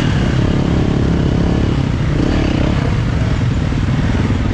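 Yamaha YZ450F single-cylinder four-stroke motocross engine revving hard and pulling under acceleration, loud and continuous, with its pitch rising and falling.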